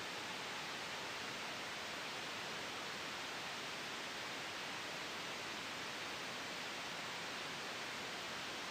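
Steady synthetic white noise made for sleep and noise masking: a soft, even hiss, brightest in the upper-middle range, with no changes.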